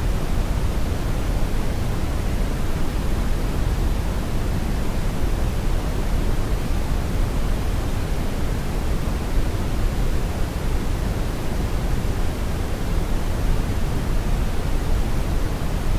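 Steady brown noise: an even, unchanging rush of noise weighted toward the low end, with no tones or events.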